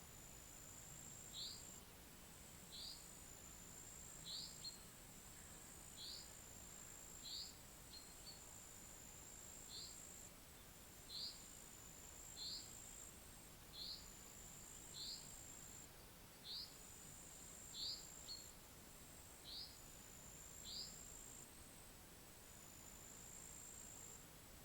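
A faint, steady, very high insect trill, like crickets. Over it, a single short rising call note repeats about every second and a half, then stops a few seconds before the end.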